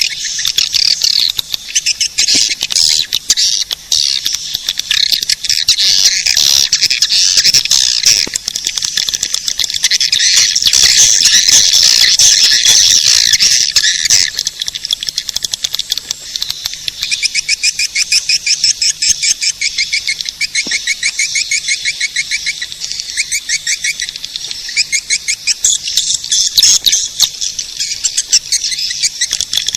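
Swiftlet calls played as a swiftlet-house lure: loud, dense, high-pitched twittering that turns about halfway into rapid runs of sharp, evenly repeated chirps.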